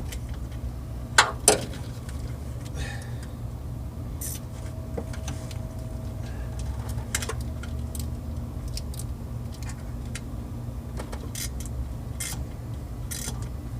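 Scattered metal clinks of hand tools and fasteners, with two sharp clinks close together about a second in and a few fainter ones later, over a steady low hum.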